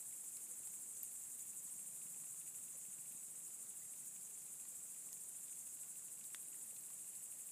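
Crickets chirring in a steady, high-pitched chorus, with a couple of faint clicks.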